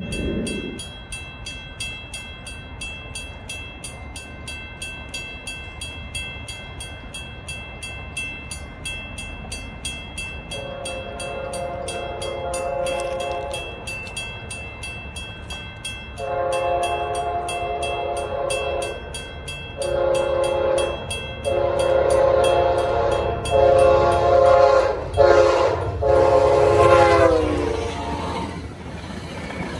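Approaching train sounding its air horn in a series of blasts, two long ones and a shorter one followed by a long, broken final blast that drops in pitch as the train passes, over a growing rumble of the train. Before and under the first blasts there is a fast, steady ringing.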